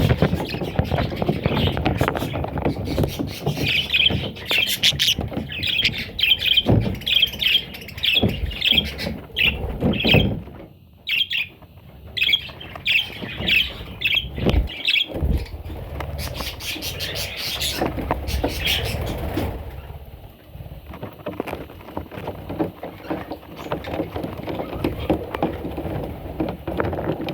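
Budgerigar chicks chirping in quick runs of repeated high calls, over a low scuffling noise. The calling falls off near the end.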